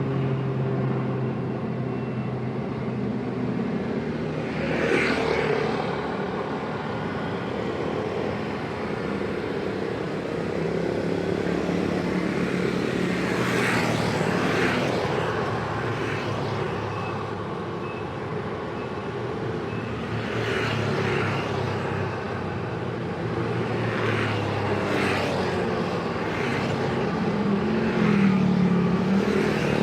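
Busy road traffic: a steady mix of vehicle engines and exhausts running and idling, with several vehicles swelling louder as they rev or pass close by, about five times.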